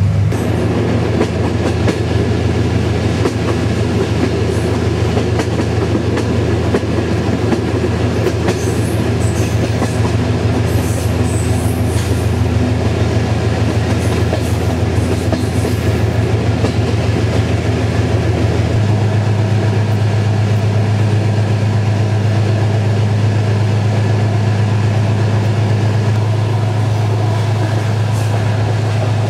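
Running noise of a moving passenger train carriage: a steady loud rumble of the wheels rolling on the rails, over a continuous low hum that shifts slightly in pitch about two-thirds of the way through.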